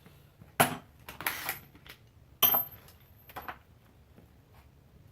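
Metal hand tools being handled: a sharp clank, a short rattle, then a second clank that rings briefly, followed by a few lighter clicks.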